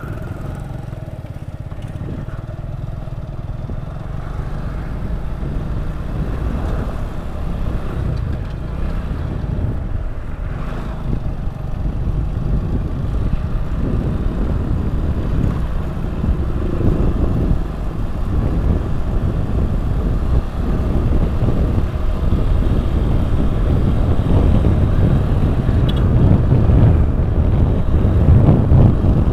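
Motorcycle engine running with road and wind rumble, growing steadily louder, as the bike is ridden along pushing a broken-down motorbike with the rider's foot.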